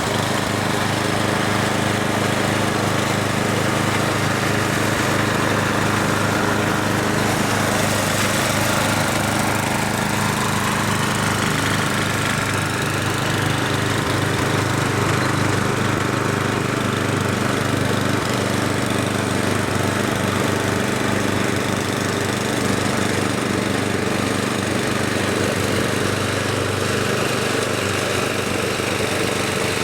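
Snowblower's small gasoline engine running steadily, a constant even drone with no change in speed.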